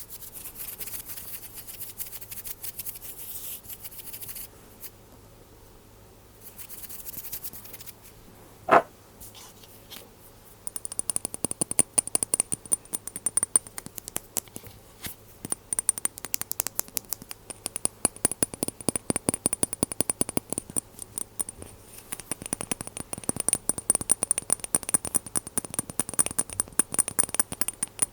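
Glass dropper bottles handled close to the microphone: scratching and rubbing at first, then a single ringing glass clink about nine seconds in, then quick, irregular tapping and clicking on the glass and lids for the rest.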